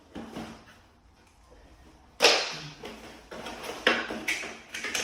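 Product packaging being handled during unboxing: a sharp rustle or scrape about two seconds in, the loudest, then several shorter rustles.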